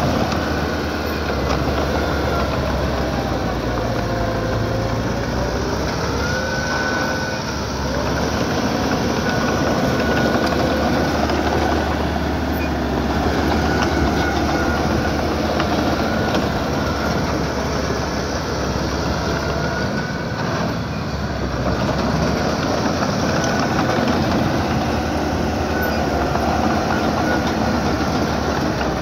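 Small crawler bulldozer working: its diesel engine running under load while the steel tracks clank, grind and squeal in drawn-out, wavering tones, steady throughout.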